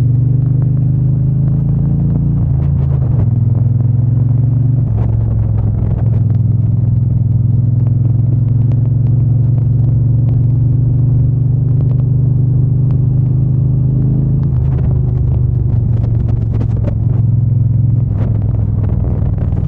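Triumph Bonneville T120's 1200 cc parallel-twin engine and exhaust under way on the road, running steadily with its pitch dropping in the first couple of seconds and changing again about five, fourteen and eighteen seconds in as the revs change.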